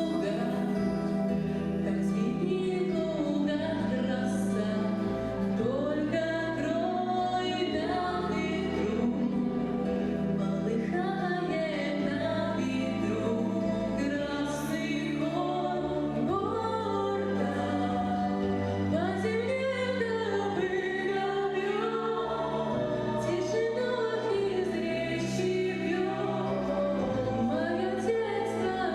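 A song performed by a children's vocal group: voices singing over a steady instrumental accompaniment.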